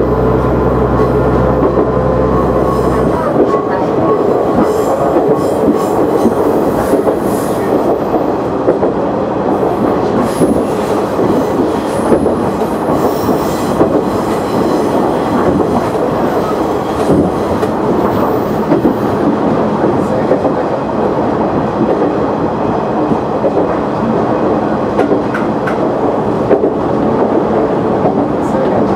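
KiHa 100 diesel railcar running along the line, heard from the driver's cab: a steady rumble of wheels on rail, with repeated clicks over the rail joints. A low steady drone stops abruptly about three seconds in.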